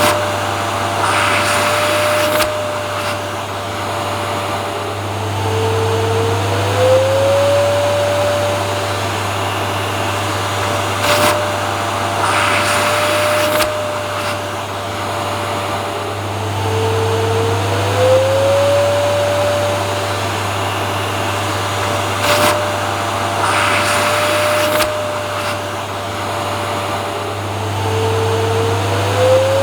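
Vacuum cleaner motor running steadily as continuous white noise, with a low hum and a whine that drops briefly and glides back up about every eleven seconds, along with short bursts of hiss.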